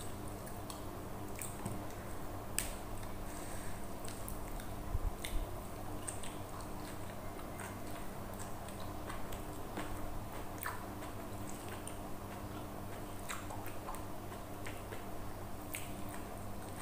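A person chewing and eating rice and side dishes by hand, with scattered small wet mouth clicks and smacks over a steady low hum.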